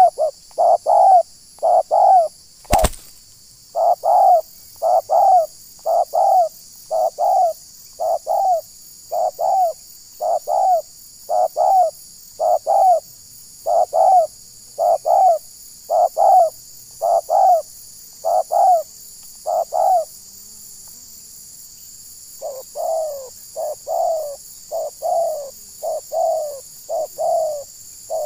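Spotted dove cooing a long series of short, slightly falling notes, about one a second. A sharp click comes about three seconds in. The calls break off for a couple of seconds near the twenty-second mark, then resume a little softer.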